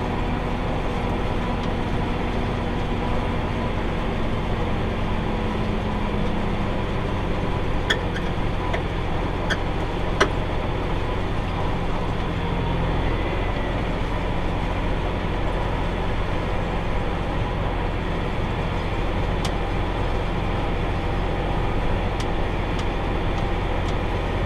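Tractor engine running steadily under load while pulling a round hay baler, with a few light clicks and ticks about a third of the way through.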